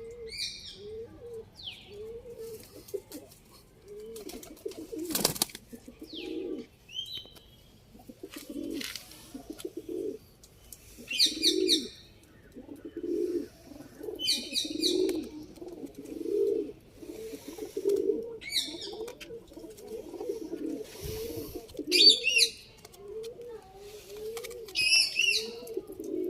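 Domestic pigeons cooing over and over in low, rolling phrases, with short high chirps from other small birds now and then and one sharp click about five seconds in.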